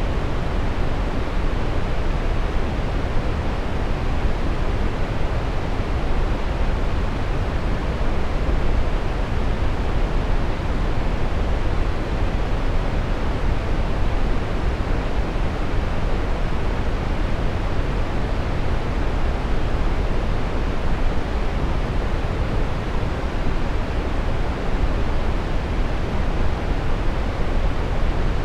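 Brown noise: a steady, even rushing hiss weighted toward the low end, with no rhythm or changes.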